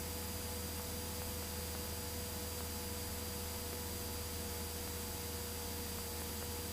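Steady low drone of a Cessna 172's engine and propeller in the climb, heard through the headset intercom under a constant hiss and a few thin steady whining tones.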